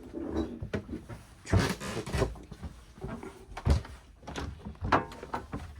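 Scattered knocks and bumps with rustling in between, four or five of them louder than the rest.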